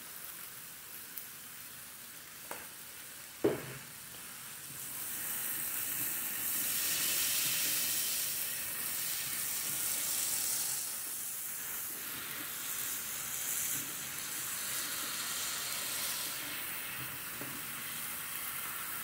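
Spaghetti squash and vegetable stir-fry sizzling in an electric skillet while it is stirred with a silicone spatula. A single knock comes about three and a half seconds in. The sizzle grows louder a second later and stays steady.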